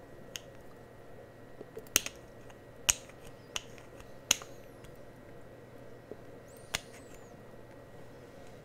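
Close-miked ASMR trigger sounds: a series of sharp, irregular clicks and taps, the loudest around two to four seconds in, with a faint squeak near the end.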